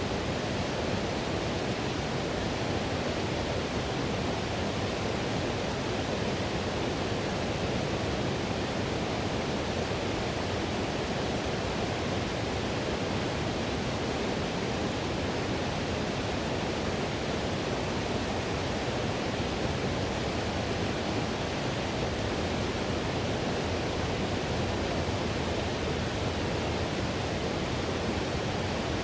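Whitewater river rushing in a steady, unbroken roar.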